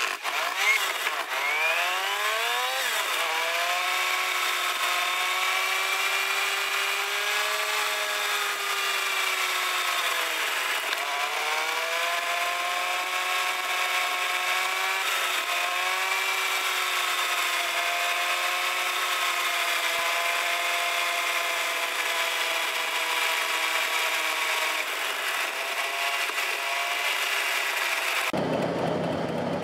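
A Fiat 500's air-cooled two-cylinder engine driving, heard from inside the cabin and sped up by time-lapse, so it comes out as a high-pitched buzz. Its pitch climbs at the start as the car accelerates, drops around ten seconds in and climbs again. Near the end it cuts abruptly to a deeper sound.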